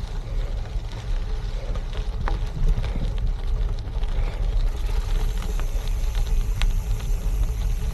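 Wind buffeting the microphone over the rolling noise of gravel-bike tyres on a gravel trail, with a few small clicks.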